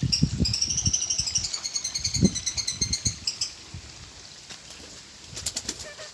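Birds calling: a rapid, high twittering trill for the first three seconds or so, with low pulsing calls beneath it, then a few sharp ticks near the end.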